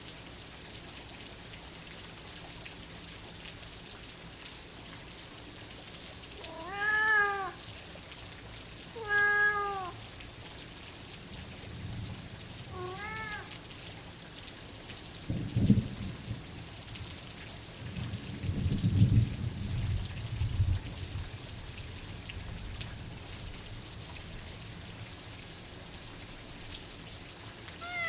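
Steady rain with a cat meowing three times in the first half, then low rolls of thunder, the two loudest about midway and two-thirds of the way through.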